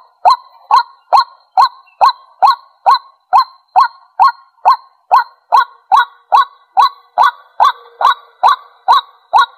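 White-breasted waterhen calling: a long, even series of short, loud 'kwak' notes, a little over two a second.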